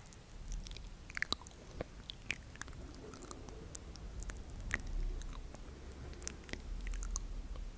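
Close-miked ASMR mouth sounds: irregular wet clicks and smacks, many small sharp ones scattered throughout.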